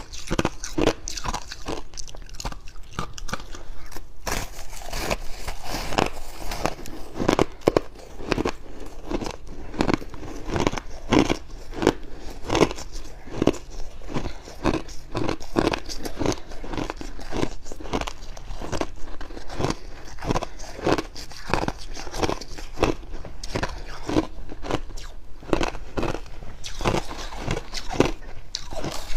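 A person biting and chewing fluffy freezer frost, a steady run of dry, crunchy bites and chews about two a second.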